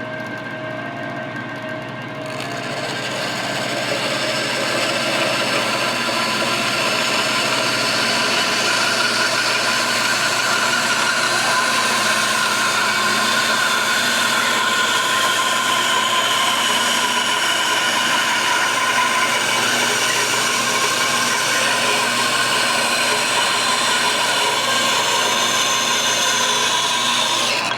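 Bandsaw cutting through a hickory spatula blank to trim out a defect, a steady machine noise that grows louder about two seconds in as the blade bites into the wood.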